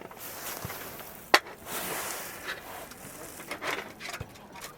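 Handling noises: rustling and rubbing, with one sharp knock a little over a second in.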